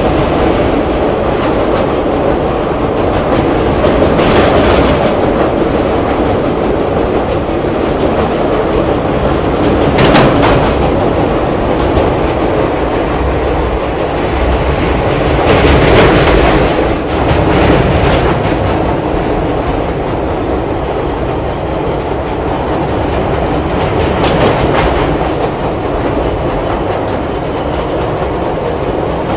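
Express train running across a steel truss bridge, heard at an open coach door: a loud, steady rumble and clatter of wheels on the rails. A few louder knocks stand out, about 10 and 16 seconds in.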